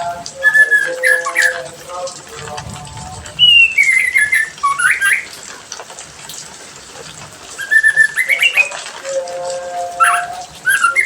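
A songbird singing loud whistled phrases: quick sliding and rising notes mixed with held lower whistles, in several bursts with a quieter spell about halfway through.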